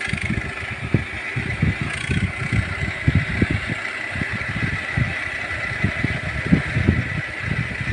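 Tractor engine running, with a steady high whine over it.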